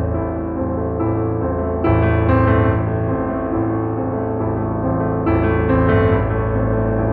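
Background piano music: sustained notes with a new chord struck every couple of seconds.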